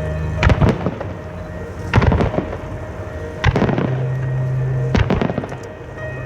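Aerial firework shells bursting in sharp reports, in pairs about every one and a half seconds, over music playing at the show.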